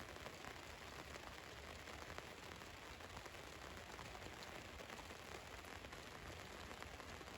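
Rain drumming steadily on the roof of a van, a dense even patter of small drop ticks.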